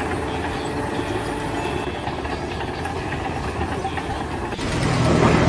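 Steady engine or machinery noise with a low hum, which gets louder about four and a half seconds in.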